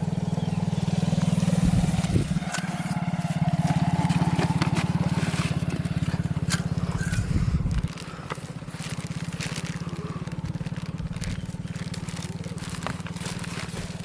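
A small engine running steadily, with a fast, even pulsing rumble that drops in loudness about eight seconds in; scattered clicks and crackles over it.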